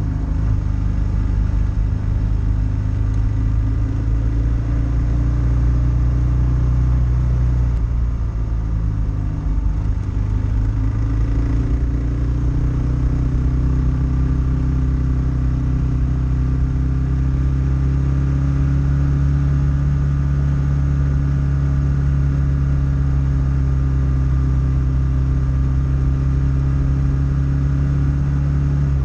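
Kawasaki KLR650's single-cylinder engine running steadily at cruising speed on a gravel road, its pitch rising a little about twelve seconds in.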